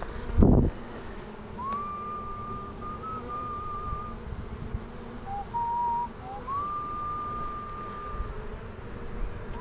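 A person whistling long, held notes, each starting with a short upward slide. Two long notes are separated by a few shorter, lower ones.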